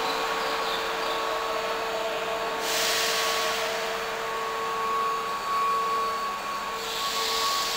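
Keihan 5000 series electric commuter train at an underground platform, giving off a steady whine with two hisses of air, the first about three seconds in and the second near the end.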